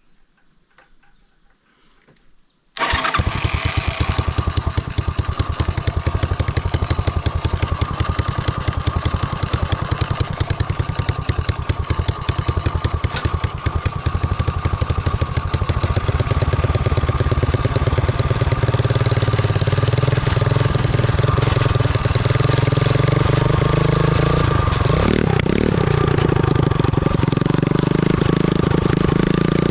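The 250cc motorcycle engine of a homemade go-kart starts abruptly about three seconds in and keeps running steadily. It grows a little louder past the halfway point.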